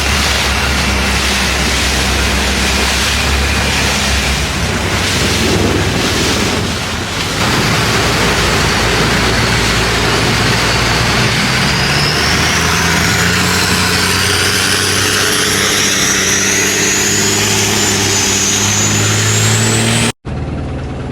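Long-tail boat's unmuffled engine running hard under way, with water and wind rushing past. About halfway through the engine pitch climbs steadily as the boat speeds up. Near the end the sound cuts out briefly and comes back quieter.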